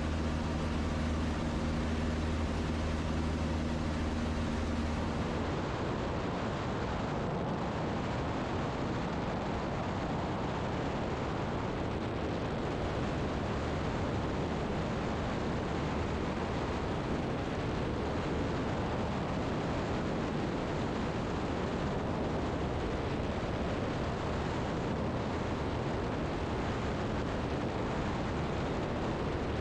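Zenith STOL CH 750 Super Duty light aircraft in flight: a steady engine and propeller drone, which changes suddenly about five seconds in to a steady rushing noise of airflow and engine.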